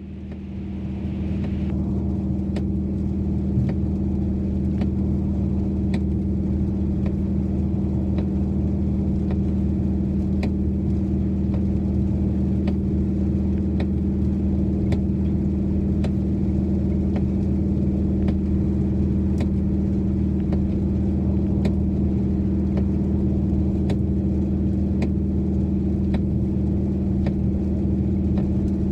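A 2012 Dodge Challenger R/T's 5.7-litre HEMI V8 droning steadily at cruising speed, heard from inside the cabin along with road and rain noise. Faint clicks come about once a second.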